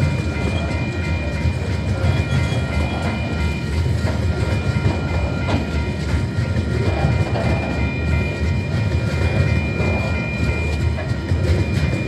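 Coal hopper wagons of a freight train rolling past over a level crossing: a steady low rumble with wheel clatter on the rails, and a steady high tone over it.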